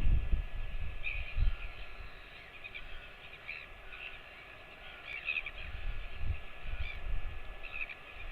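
Short bird calls repeated every second or so, over low rumbling thumps.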